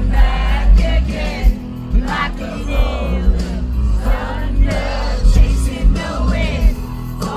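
Amplified rock band playing live, with sung vocals over heavy bass and drums.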